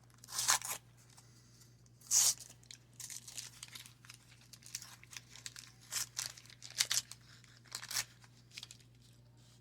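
Waxed-paper wrapper of a baseball card wax pack being torn open and crinkled: a series of short rips and rustles, the loudest about half a second and two seconds in.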